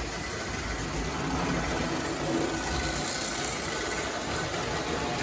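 Model electric trains running on the layout's track, a steady mechanical hum and rumble from their motors and wheels.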